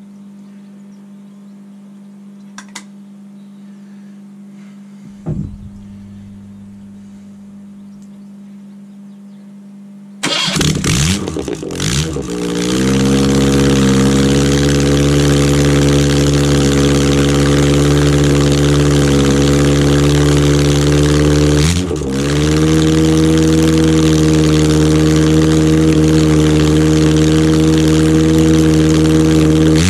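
Freshly rebuilt Ford Pinto 2.0-litre OHC four-cylinder engine on its first start. After about ten seconds of a low steady hum, it fires abruptly, runs unevenly for a couple of seconds, then settles into steady running. Its revs dip briefly and recover about two-thirds of the way through.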